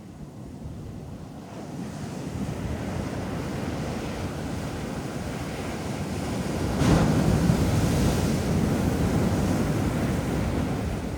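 Ocean waves breaking on a beach. The surf swells gradually, and one wave crashes sharply about seven seconds in, the loudest moment, then washes and eases off near the end.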